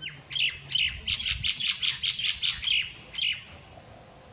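A bird calling: a rapid series of about a dozen loud, sharp, high notes over about three seconds, the last one after a short pause.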